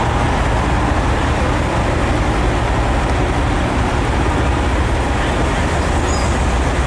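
Steady low rumble with an even hiss, unchanging throughout: outdoor background noise of a busy truck show.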